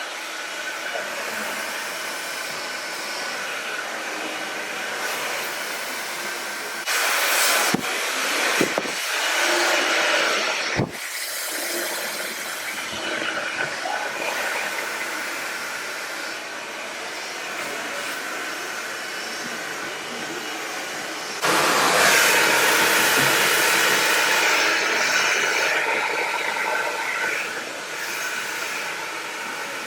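Handheld hair dryer blowing with a steady hiss and a faint motor whine. It gets louder twice, around 7 s and again from about 21 s, as it comes nearer.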